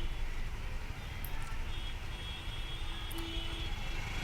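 Steady rumble of city road traffic at a signal: engines of waiting motorcycles, cars and trucks idling.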